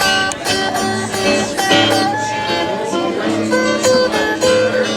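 Acoustic guitar music played live: a run of plucked and strummed notes, with a few notes held and ringing.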